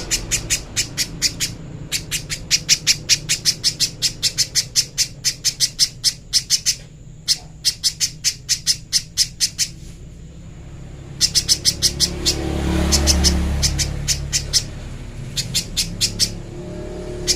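Pijantung pisang (spiderhunter) calling: runs of sharp, high, rapidly repeated chips at about four a second, broken by a pause of a few seconds in the middle.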